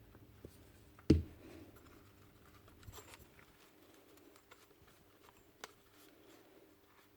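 Light scattered clicks and taps of small parts and tools being handled while working on a nail gun, with one sharp knock about a second in.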